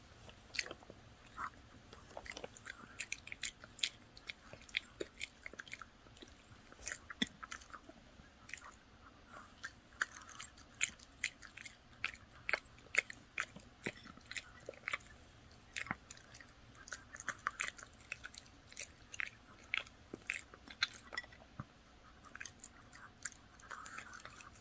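An old Shih Tzu chewing dried carrot pieces, with irregular sharp crunches several times a second.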